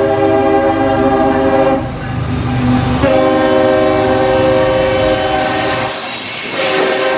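CSX freight locomotive's air horn sounding a chord in separate blasts: one ending about two seconds in, a long one from about three to six seconds, and a short one near the end. Under it the low rumble of the passing freight train fades out about six seconds in.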